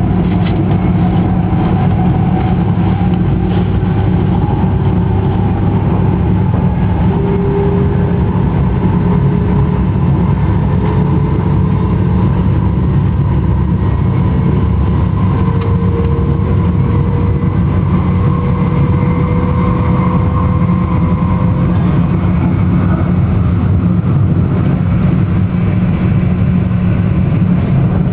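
Joetsu Shinkansen bullet train running: a steady, loud rumble with faint tones slowly rising in pitch over the whole stretch.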